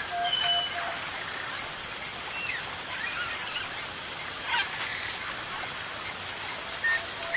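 Birds chirping and calling, with short rising and falling notes and a quick descending run of calls about halfway through, over a steady background hiss. A faint high pip repeats about two or three times a second throughout.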